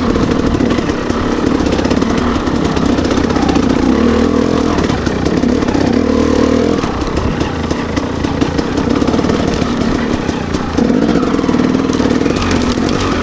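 Dirt bike engine running while being ridden, its pitch rising and falling with the throttle and shifting twice.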